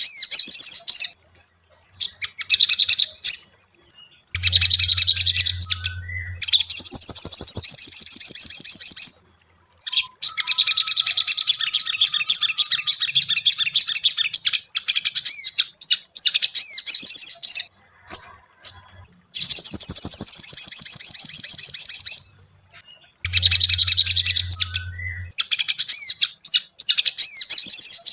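Sogon (sogok ontong) singing in long, rapid, high chirping trills, several seconds each with short breaks between them. A low hum sounds twice, briefly.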